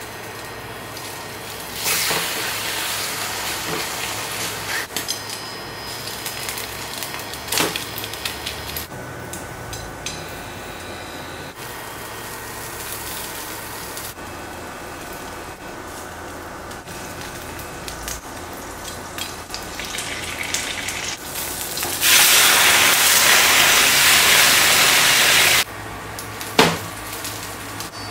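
Kitchen cooking sounds: a hiss like food frying in a pan, with a few sharp knocks of utensils. About three-quarters of the way through comes a loud, even rush lasting about three and a half seconds that starts and stops abruptly.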